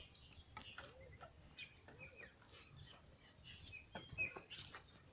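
Small birds chirping repeatedly and faintly, with a few soft scuffs or clicks among the calls.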